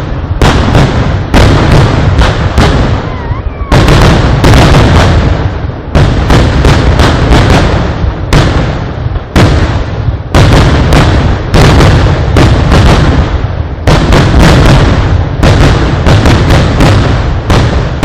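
Fireworks going off in a dense, nonstop barrage of very loud bangs, several a second, overlapping into a continuous rumble. Fresh volleys of sharper reports break in every few seconds.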